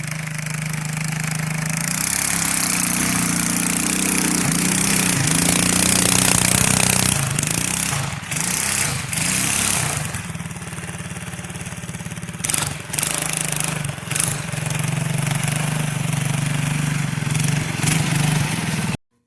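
A motor or engine running steadily, with a strong hiss over it, its pitch wavering slightly, and a few sharp clicks; it cuts off abruptly near the end.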